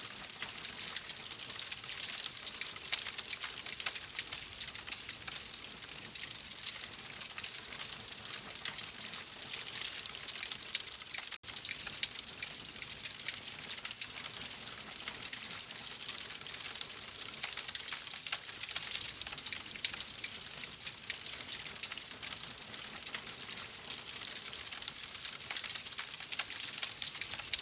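Wood fire crackling in a fireplace: a dense, steady stream of small pops and snaps over a soft hiss, broken by a split-second gap about eleven seconds in.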